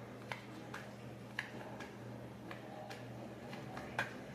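Light ticks about twice a second, fairly evenly spaced, over a low steady hum.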